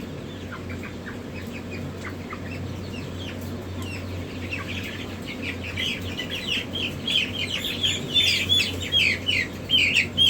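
Newly hatched chicks peeping: short, high, falling cheeps, sparse at first and thickening into a rapid, louder chorus from about halfway on, over a steady low hum.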